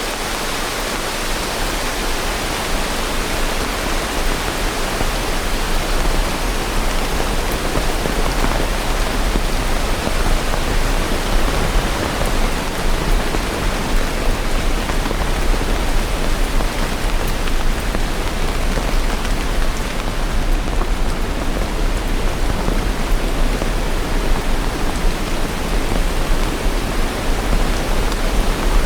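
Steady rain, an even hiss of dense drops across all pitches with no breaks, growing slightly louder over the first few seconds.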